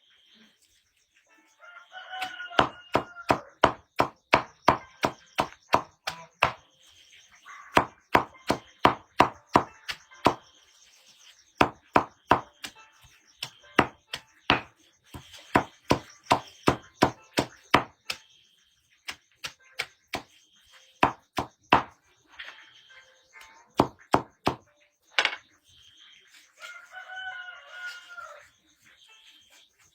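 Firewood being chopped with quick, sharp blows, about two to three a second, in runs of several strokes with short pauses. A rooster crows near the start and again near the end.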